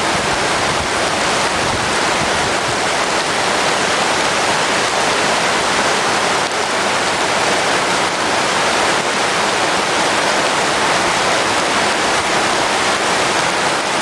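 Steady, loud rush of water in a heavy rainstorm, an even roar that does not let up.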